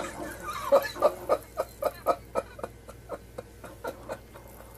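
An animal's fart: a rapid string of short pops, about four a second, growing fainter until they stop a little past four seconds in.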